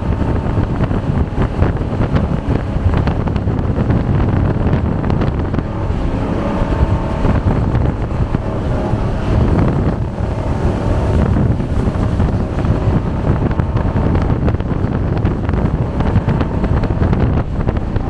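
A jet boat under way: the engine running at speed under loud, steady wind noise on the microphone and rushing water. The engine's note comes through more clearly in the second half.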